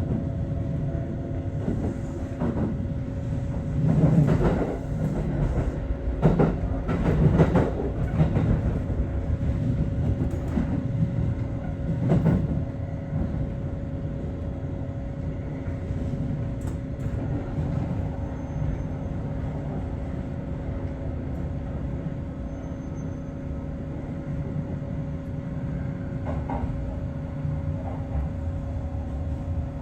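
Aichi Loop Railway 2000 series electric train running along the line, heard from inside the front car. There is a steady low rumble with a constant hum, and a run of louder clatters over the rail between about four and twelve seconds in, after which it settles to even running.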